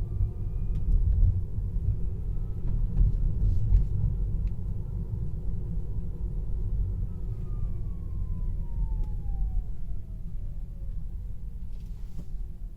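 Tesla Model 3 Performance dual-motor drivetrain whining over low road rumble, heard with the AC and music off. The whine rises slightly in pitch, holds, then falls steadily over the last five seconds or so. It is the loud whine on acceleration and deceleration that the owner reports as new and abnormal.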